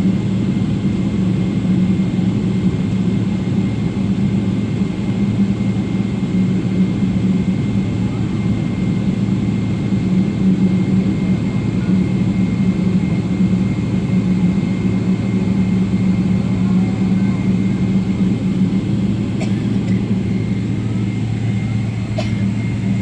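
Steady cabin drone of a Boeing 777 on the ground before takeoff, its jet engines running at low power under a constant low hum with a thin high tone above it.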